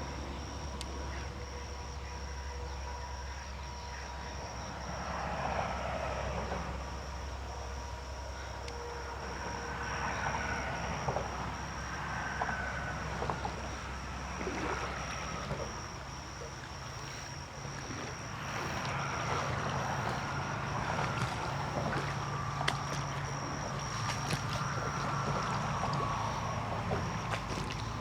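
Creek water sloshing and swishing in irregular surges around a person wading through shallow water, over a steady low hum and a thin, steady high-pitched tone.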